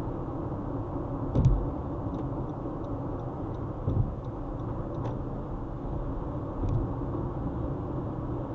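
Steady road and engine rumble of a car driving on a highway. Three dull thumps come through, the loudest about a second and a half in.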